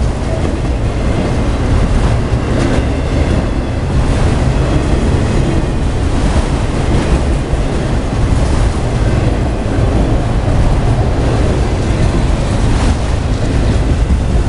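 Freight train of autorack cars rolling past close by: the loud, steady rumble of steel wheels on rail.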